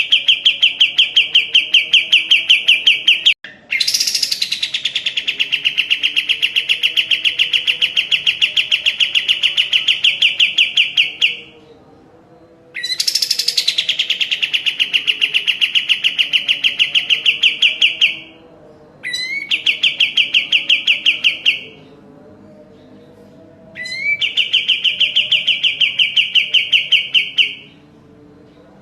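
Kapas tembak songbird singing long, fast trills of rapidly repeated notes, about nine a second. Each phrase opens with a short rising sweep or a bright burst and runs for several seconds. Five phrases come with brief pauses between them.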